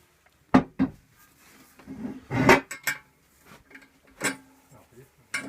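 Sharp metal clanks and clinks of tools against the cast-iron top plate of a Dovre 550 CB stove as work starts on pressing out its flue knockout: about five separate hits, the loudest about two and a half seconds in.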